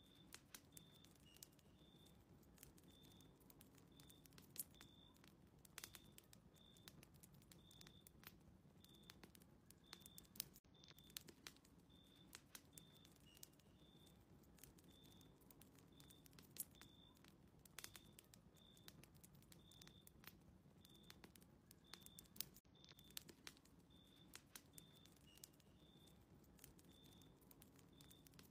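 Faint fireplace crackling, irregular sharp pops and snaps over a low hum, with a short high-pitched chirp repeating about twice a second.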